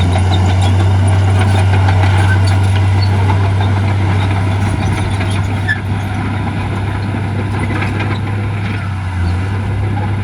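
Heavy diesel earthmoving machinery running steadily, a low, even engine drone with scattered light clicks and clanks over it. The level eases slightly about halfway through.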